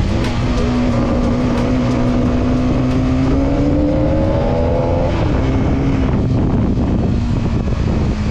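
Hero Karizma XMR 210 motorcycle's single-cylinder engine running under way, its pitch rising slowly as it accelerates, then dropping and settling about five seconds in.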